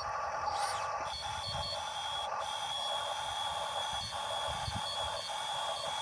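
Small electric motors and gearboxes of radio-controlled construction models whining steadily at a high pitch, with short high beeps now and then.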